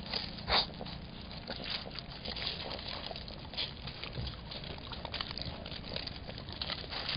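Javelina (collared peccaries) moving about close by: many short clicks and scuffs, with one louder brief sound about half a second in.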